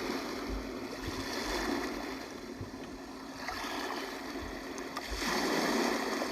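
Big Red Rooster white noise machine playing its recorded 'ocean' sound through its small speaker: a wash of surf noise that swells, fades around the middle and swells again a few seconds later.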